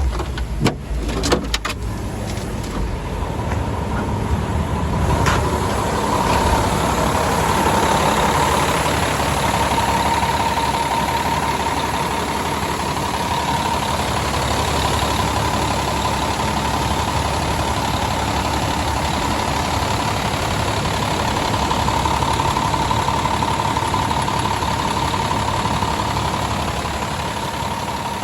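Cummins ISM inline-six diesel engine running steadily. A few sharp knocks come in the first second or two, and a steady high whine rises over the engine a few seconds in.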